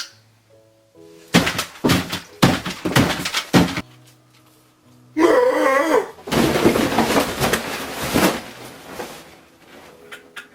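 Loud, messy crunching and chomping eating noises in two bouts over quiet background music, with a brief warbling, wavering cry at the start of the second bout.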